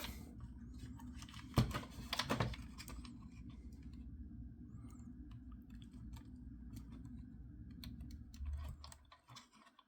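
Small plastic clicks and handling as a toy RC tank's battery pack is seated and its wire connector fitted, with a couple of louder clicks between about one and a half and two and a half seconds in, over a steady low hum.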